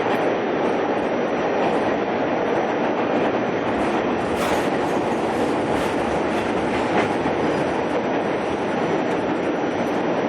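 Staten Island Railway train running between stations, heard from inside the passenger car: a steady rumble of wheels and rail, with a few faint clicks in the middle.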